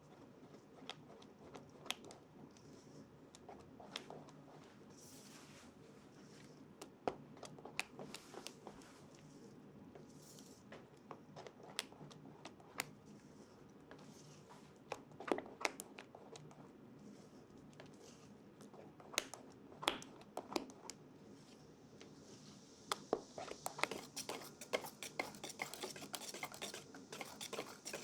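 Faint, scattered clicks and light scrapes of baking tools and dishes being handled, turning into a quicker run of clicking and scraping near the end.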